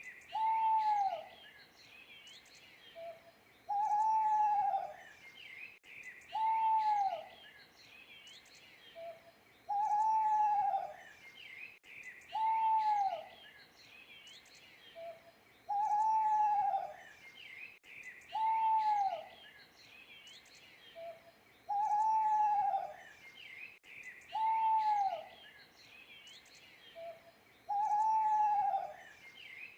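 An owl hooting: single hoots, each rising then falling slightly in pitch, coming evenly about every three seconds, with a faint short note before some of them. Small birds chirp faintly and continuously behind it.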